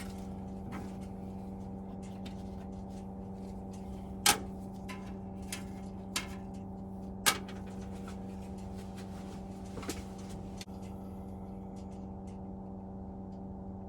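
A few sharp clicks and knocks of boiler parts being handled during a strip-down, the loudest about four and seven seconds in, over a steady low hum.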